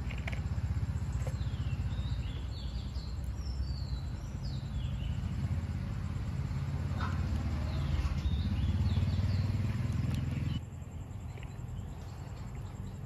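Small birds chirping, a series of short calls, over a steady low rumble that cuts off suddenly near the end.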